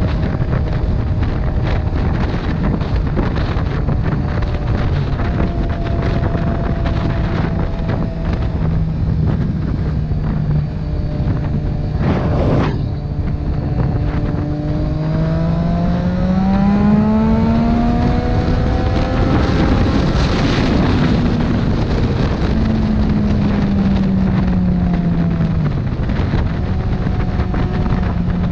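Motorcycle engine running on the road under heavy wind noise on the microphone. The engine note rises as it speeds up about halfway through, then falls back, with a brief knock about twelve seconds in.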